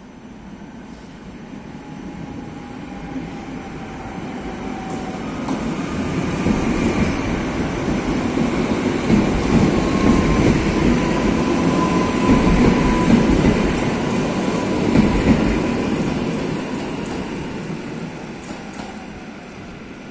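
Passenger train approaching and passing alongside the platform: wheel-and-rail noise grows steadily louder, peaks in the middle with a few clacks over the rail joints and a faint high whine, then fades.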